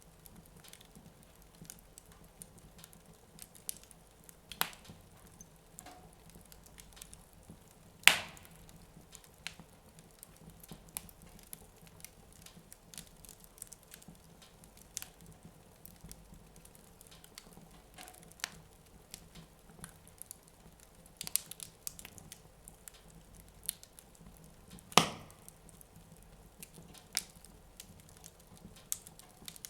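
Wood fire in a fireplace crackling: scattered small snaps, with two loud pops about 8 seconds and 25 seconds in.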